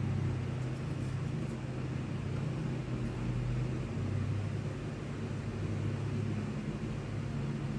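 A steady low mechanical hum with a faint hiss behind it.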